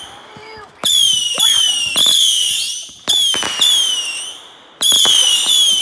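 Whistling fireworks going off one after another: about four shrill whistles, each starting suddenly with a pop, wavering slightly in pitch and dying away over about a second.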